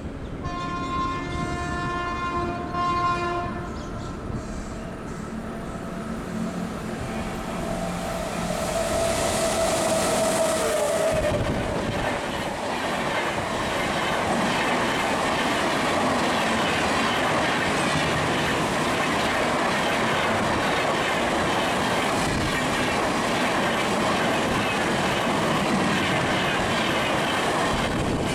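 Indian Railways WAP-7 electric locomotive sounds its multi-tone horn in two blasts, the second short, and about eight seconds in a second horn note drops in pitch as it passes. Its LHB coaches then rush past with a steady, rhythmic wheel clatter.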